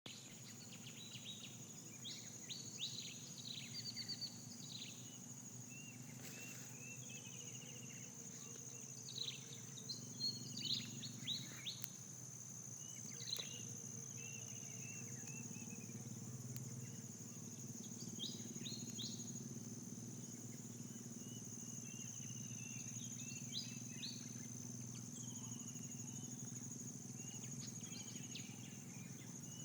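Birds chirping and trilling in short bouts several times, over a continuous high, steady drone of insects and a low, steady background hum.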